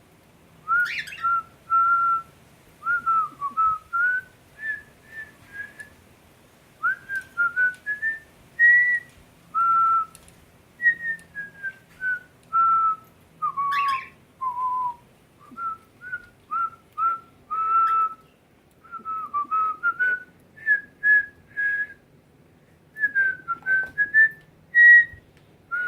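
A person whistling a slow tune: a melody of clear single notes, gliding up and down, in short phrases with brief pauses between them.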